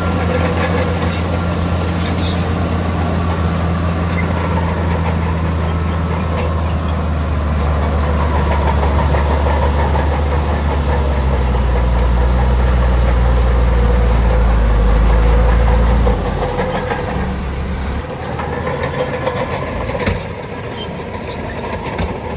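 Heavy diesel engine of an earthmoving machine running; its pitch slowly sinks as it grows louder, then it drops off suddenly about 16 seconds in. A sharp knock is heard about 20 seconds in.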